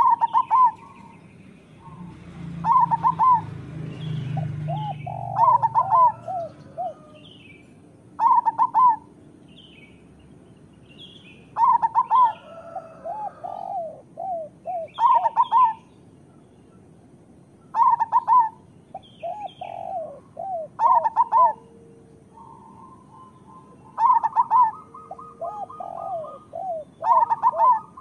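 Zebra dove (perkutut) cooing, with a phrase of quick stuttering coos about every three seconds, each phrase falling to lower notes at its end. Short higher chirps come between the phrases, and a low rumble sounds from about two to five seconds in.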